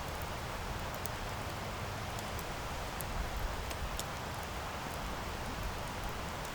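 Wood campfire burning: a steady rushing hiss of flames with scattered sharp crackles and pops from the burning wood, a little louder about three seconds in.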